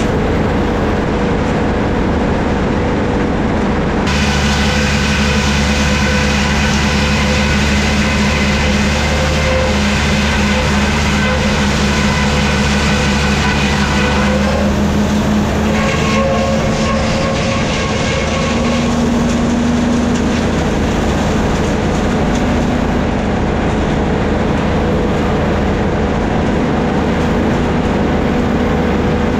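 Vintage sawmill machinery running steadily and loudly. About four seconds in a higher steady whine joins the running, as a blade takes a cut, and fades about ten seconds later.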